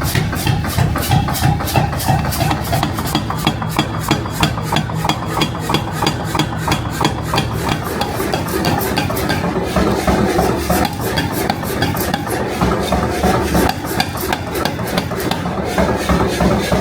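Rapid, evenly spaced metalworking strokes, about five a second, over a steady low hum.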